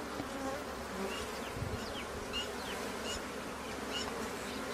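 Honeybees buzzing in a steady drone around their disturbed wild nest, with a few short high chirps over it.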